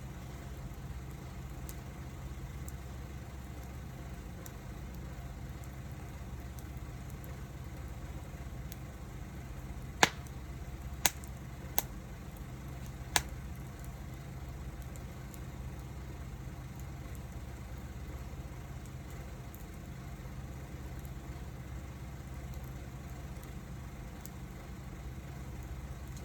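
Wood fire burning with a steady low rumble and faint scattered crackles. Four sharp, loud pops from the burning wood come close together about ten to thirteen seconds in.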